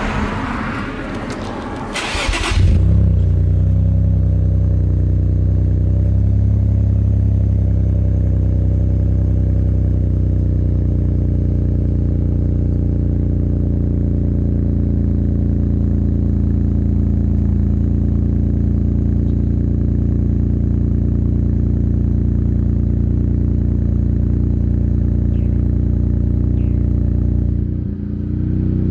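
Car engine cold-started: it fires about two and a half seconds in and settles into a steady idle.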